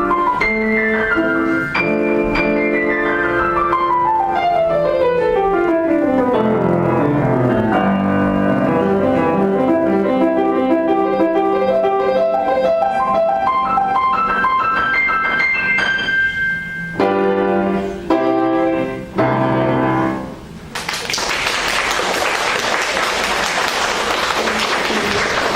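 Acoustic piano playing a solo piece with fast descending runs, ending in a few separate chords. About twenty seconds in, the audience breaks into applause.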